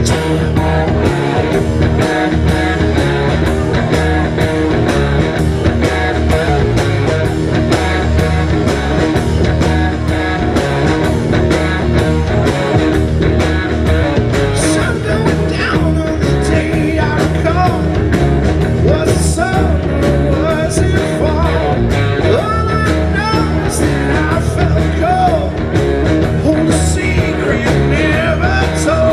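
Live rock band playing a song: guitar over a steady drum beat, with a voice singing over it.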